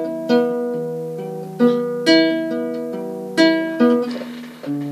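Guitar playing plucked chords in an instrumental break of the song, each chord struck sharply and left to ring out, about six strikes in all.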